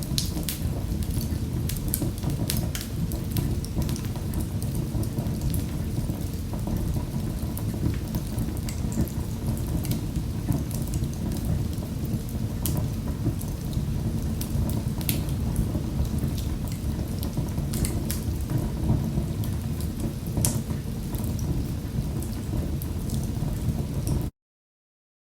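Fire in a fireplace crackling, with frequent sharp pops over a low steady rumble of flames. The sound cuts out completely for about a second near the end.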